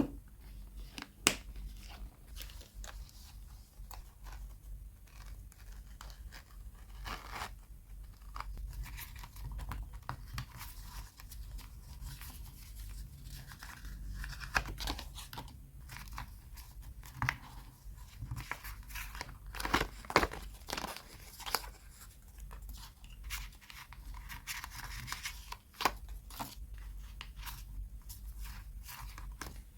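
Paper and washi tape being handled close up: irregular rustling, crinkling and tearing, with scattered sharp taps and clicks.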